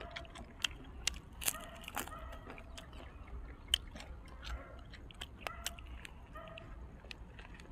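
Close-up mouth sounds of chewing fried dried squid, with sharp, crisp crunches scattered irregularly throughout.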